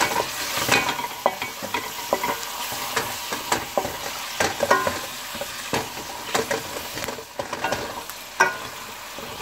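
Shrimp, onions and green chillies sizzling as they fry in oil, while a spatula stirs them, scraping and knocking against the pan in irregular strokes.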